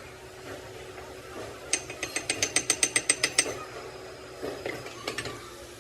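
A quick, even run of about a dozen sharp metal-on-metal strikes from hand-tool work, about seven a second, starting under two seconds in and lasting about two seconds, with a few fainter clicks after.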